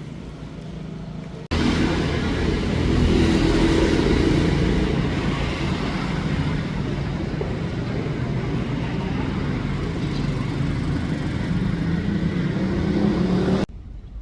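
Motor vehicle running on the road, a loud steady engine-and-road rumble that starts suddenly about a second and a half in and cuts off sharply near the end.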